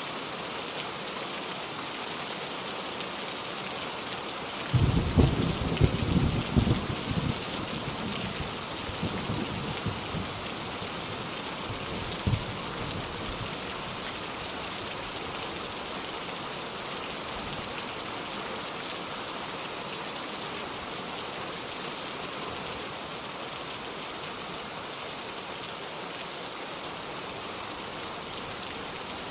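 Steady rain falling, with a deep roll of thunder about five seconds in that lasts a few seconds and fades, and one more short low thump a few seconds later.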